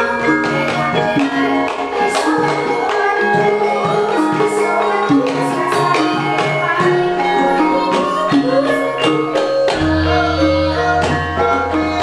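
Banyumasan gamelan ensemble playing: kendang hand-drum strokes over ringing bronze metallophone notes. A deep low tone comes in near the end.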